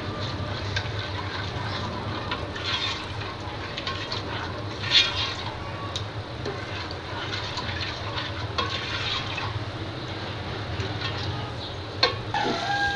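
Curry masala with yogurt sizzling as it fries in ghee in a pot, with scattered scrapes and knocks of a ladle stirring it. This is the frying stage that runs until the ghee separates from the masala.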